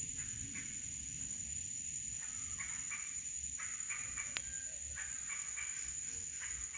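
Tropical forest ambience: a steady high-pitched insect drone, with short, repeated animal calls over it.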